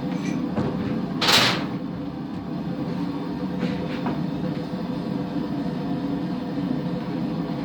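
Steady drone of a blacksmith's forge running, with a short loud hiss about a second in and a couple of faint knocks near the middle.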